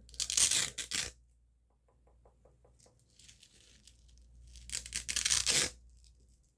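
Close-up ASMR gripping sounds: two scratchy rubbing bursts right against the microphone, each about a second long, one at the start and one near the end. Between them comes a faint quick run of small ticks, about seven a second.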